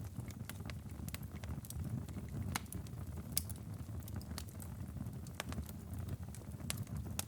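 Wood fire burning in a fireplace: a steady low rumble of flames with scattered sharp crackles and pops, about one or two a second.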